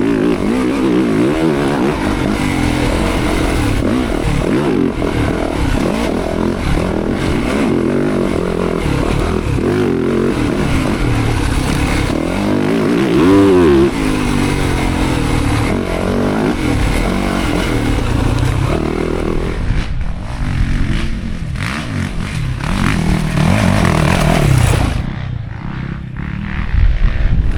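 Enduro dirt bike engines revving hard and changing pitch continuously, with a sharp rise and fall about halfway through.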